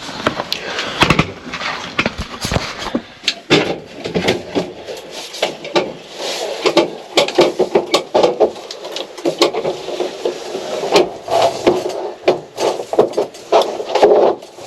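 Irregular knocks, thumps and rubbing as a person climbs into a pickup truck's bed under a camper topper and moves around inside.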